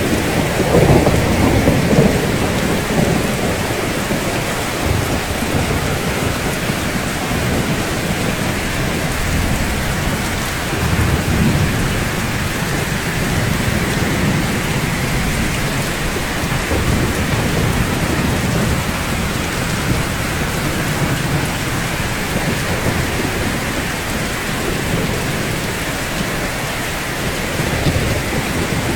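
Steady, dense rainfall with low rumbles of thunder swelling under it. The rumble is strongest in the first two seconds, comes again about eleven seconds in and again near the end.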